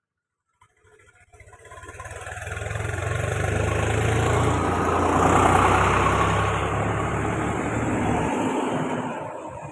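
A motor vehicle's engine running, growing louder over a few seconds and then fading; its low hum stops shortly before the end.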